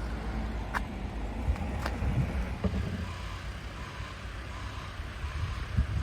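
Low steady rumble with wind on the microphone, and two sharp knocks within the first two seconds.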